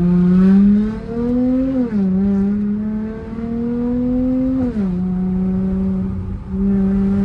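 Dodge Charger's V6 engine pulling under acceleration, its pitch climbing steadily and then dropping sharply as the transmission shifts up, twice, before settling to a steadier cruise.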